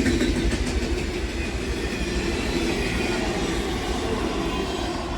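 Freight train cars rolling past at close range, a steady rumble of steel wheels on the rails, easing slightly in loudness as the end of the train approaches.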